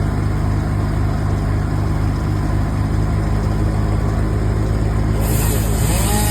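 A large engine running steadily at a constant speed, likely work machinery on a tree removal job. A high hiss joins about five seconds in.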